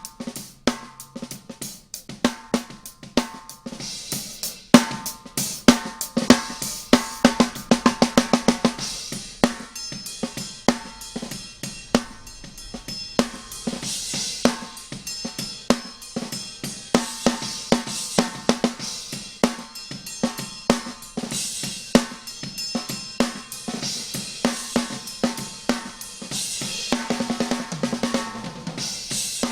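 Multitrack drum kit recording playing back: snare, bass drum, hi-hat and cymbals keeping a steady beat, with runs of rapid hits about seven seconds in and again near the end.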